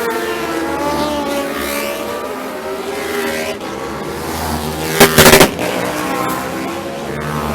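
Several racing motorcycles passing at full throttle, their engines revving and falling in pitch as they go by and shift gear. About five seconds in, a brief cluster of sharp, very loud crackles.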